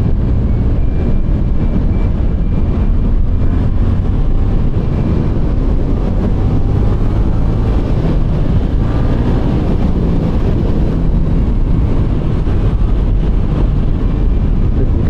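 Suzuki GSX-8S's parallel-twin engine running steadily on the move, its revs rising and falling.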